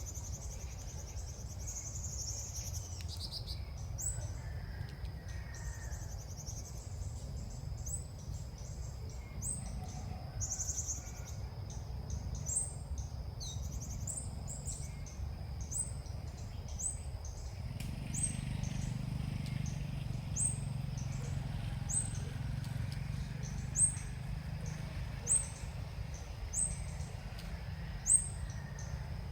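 A small bird's short, high chirps, repeated about once a second through the second half, with a few more varied calls early on, over a steady low rumble that grows louder about two-thirds of the way through.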